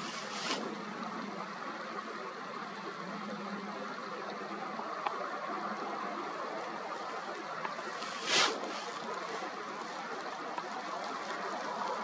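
Mountain stream rushing steadily over rocks, with a short louder burst of noise about eight seconds in.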